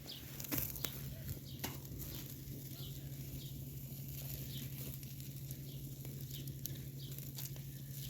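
Small birds chirping now and then, over scattered light taps and a steady low hum.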